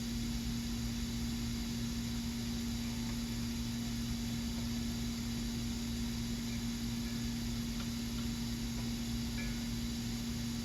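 Steady low hum with an even hiss, unchanging throughout, with no distinct knocks or tool sounds.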